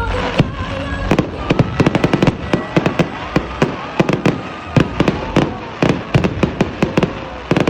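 Fireworks bursting in rapid succession: a dense run of sharp bangs and crackles, several a second.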